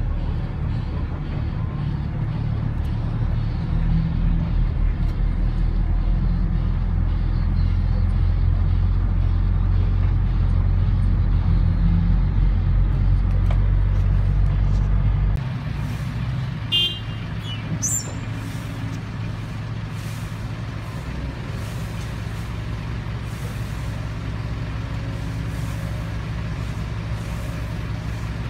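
Heavy diesel vehicle engine running steadily with a deep drone. About fifteen seconds in the sound drops abruptly and turns thinner, with a brief high squeal shortly after.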